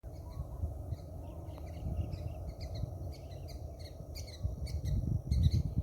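Small birds chirping, a quick run of short, high calls repeating throughout, over a low rumble that grows louder near the end.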